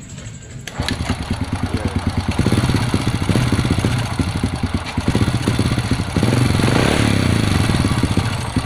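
Honda Supra motorcycle's single-cylinder four-stroke engine catches about a second in and runs with a rapid, uneven beat, getting louder twice. The engine is misfiring and weak, struggling to keep running.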